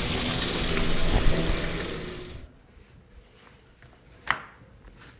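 Water running in a steady rush, which cuts off sharply about halfway through. Then comes a quiet stretch with a single sharp click near the end.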